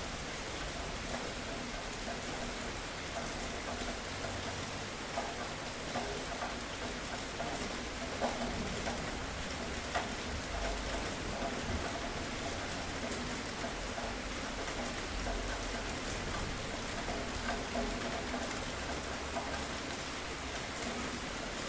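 Steady rain falling on a hard surface, an even hiss with occasional sharper single drop impacts standing out.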